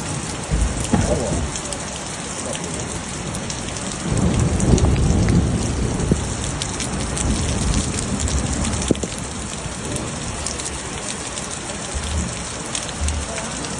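Heavy rain falling steadily, with the patter of many drops hitting surfaces. A low rumble swells about four seconds in and fades over a couple of seconds.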